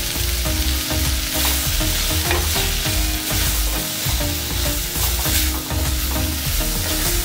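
Chopped onion, tomato and green chillies sizzling in hot coconut oil in a clay pot, with a wooden spoon stirring and scraping the pot as the spices are fried in.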